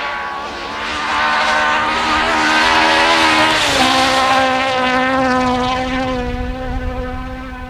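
Rally car engine at full throttle, heard from inside the car, with the revs climbing and then dropping about three and a half seconds in before holding steady.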